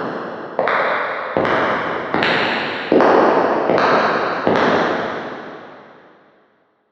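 Footsteps at a steady walking pace, about one step every 0.8 seconds, each with a long echoing tail. The last step falls about four and a half seconds in, and its echo dies away about two seconds later.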